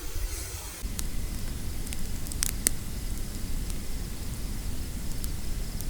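Masala frying in a pan over a triple-burner camp stove: a steady sizzling hiss with a low rush underneath, and a few sharp crackles about two and a half seconds in.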